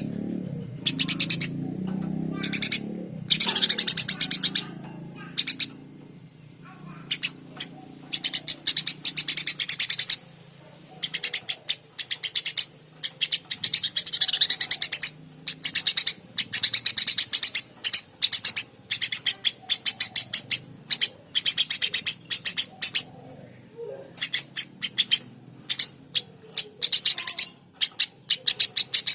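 Eurasian tree sparrow chirping constantly, in fast runs of sharp chirps broken by short pauses.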